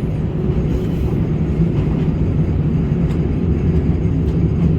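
Aizu Railway AT-751 diesel railcar running, a steady low engine hum over a rumble.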